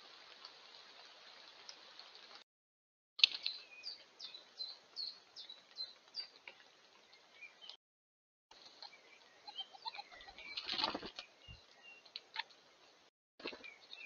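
Wild birds at a seed feeder, in short separate recordings: a run of quick, falling chirps about two a second, then scattered calls and a brief flutter of wings.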